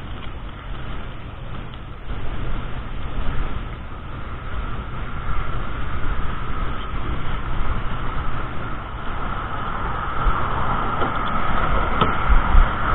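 A car driving: steady engine and road rumble with tyre noise, slowly growing louder toward the end.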